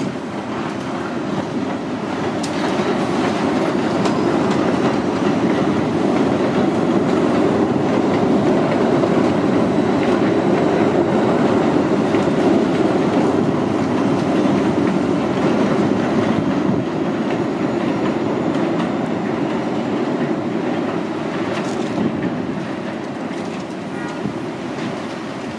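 New York City subway train passing, its wheels clattering over the rail joints. The sound builds over the first few seconds, is loudest through the middle and slowly fades near the end.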